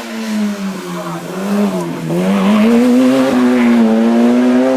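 Race car engine at high revs under hard acceleration, its pitch dipping briefly about two seconds in, as at a gear change, then rising again and holding high.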